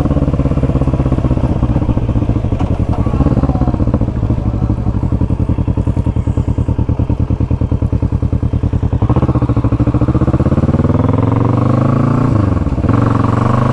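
Motorcycle engine running at low revs with its firing pulses plainly heard, then about nine seconds in the revs climb as the bike accelerates, dip sharply at a gear change near the end, and climb again.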